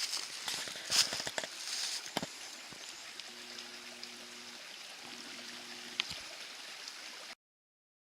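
Steady hiss of running water, with a few splashy surges in the first two seconds. Two short, steady low hums sound midway, and everything cuts off to silence near the end.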